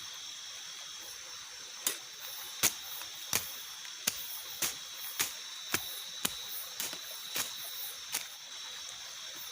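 A series of about a dozen sharp knocks, roughly two a second, starting about two seconds in and stopping near the end, over a steady high-pitched hiss.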